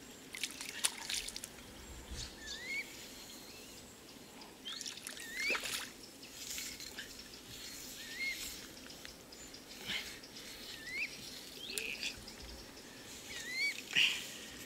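A bird calling over and over with a short rising chirp, about one every second and a half, with small splashes and trickles of water in between.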